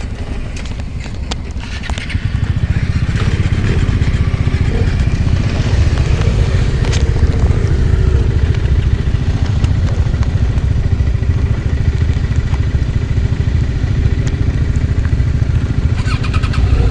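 Vehicle engine running with road noise, a steady low rumble that gets louder about two seconds in and holds, with a few sharp clicks near the start and near the end.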